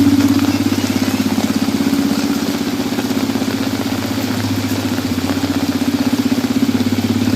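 A small motorcycle engine running steadily with an even pulse, under the hiss of heavy rain.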